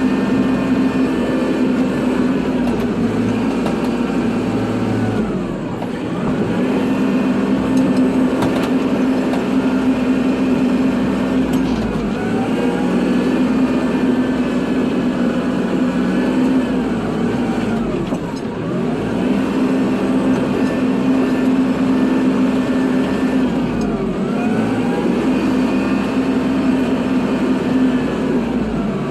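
Kubota tractor's diesel engine running steadily under load while plowing snow. Its pitch dips and recovers about every six seconds as the machine works back and forth.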